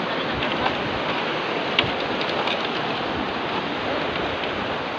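Steady rushing noise, with a few faint clicks scattered through it.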